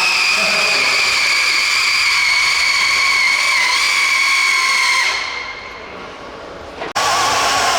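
Radio-controlled pulling vehicle's motor running flat out with a high, steady whine during a pull, fading away about five seconds in. After an abrupt cut near seven seconds, a lower-pitched whine from another pull takes over.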